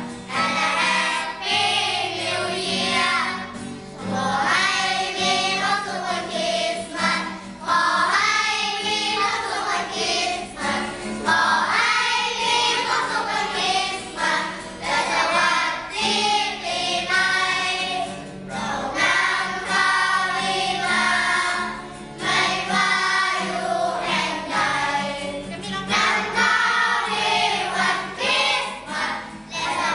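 A children's choir singing a song over musical accompaniment.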